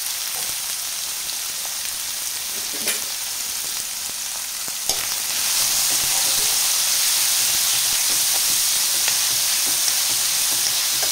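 Chopped vegetables (onion, carrot, capsicum, paneer, sweet corn) sizzling as they fry in an aluminium kadai, with a spatula stirring them. The sizzle gets louder about five seconds in, and there are a couple of light clicks before that.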